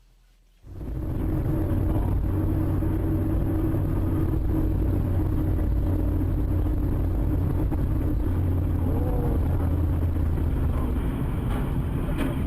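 Steady engine and road rumble of a car on the move, cutting in abruptly about half a second in and holding level throughout.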